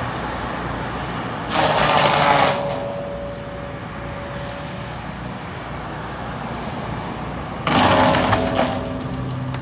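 CAT skid steer running steadily while its brush cutter attachment twice bites into a tree, each time a loud, harsh grinding burst of about a second, the first about a second and a half in and the second near the end.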